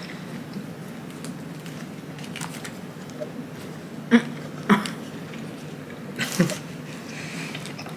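People eating fast food: chewing over a steady low hum, with three short sharp sounds a little past the middle.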